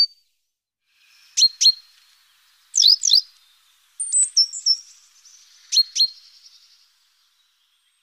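Small birds calling: pairs of short, sharp, high chirps a second or more apart, with a short run of high notes in the middle.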